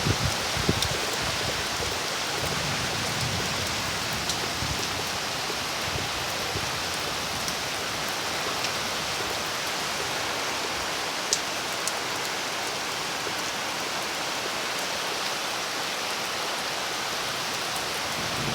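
Steady rain falling, an even hiss, with scattered sharp drip ticks; the loudest tick comes about eleven seconds in.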